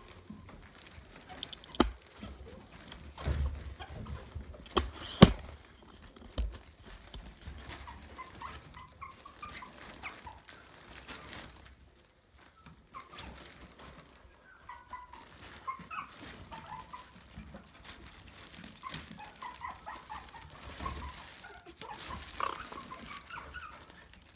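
Maltese puppies giving short, high squeaks and whimpers in scattered runs, with a few knocks in the first several seconds, the loudest about five seconds in.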